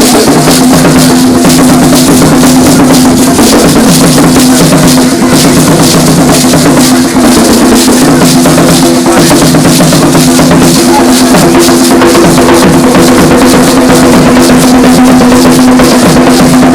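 A traditional drum ensemble playing a loud, fast, dense rhythm for dancers, with a steady held tone underneath.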